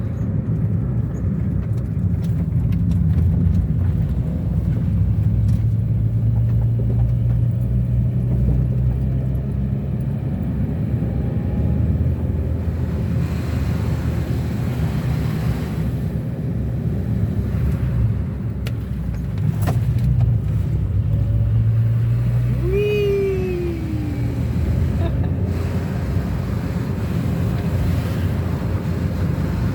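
Car engine and road rumble heard from inside the moving car, the engine note rising and falling as it accelerates and shifts. A short falling squeak about three quarters of the way through.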